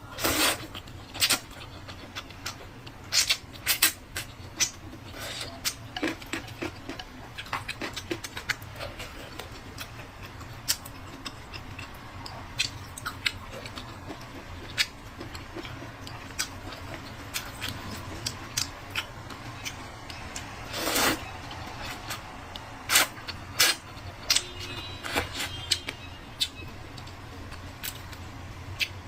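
Scattered sharp clicks and knocks of kitchen utensils and dishes being handled, over a steady low hum.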